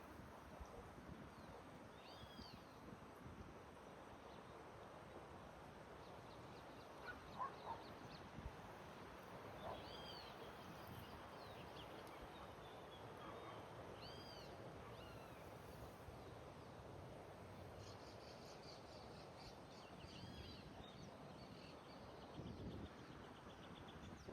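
Birds singing faintly over a soft outdoor background hiss: a short arched chirp repeats about every four seconds, with a quick ticking trill a little past two-thirds of the way through.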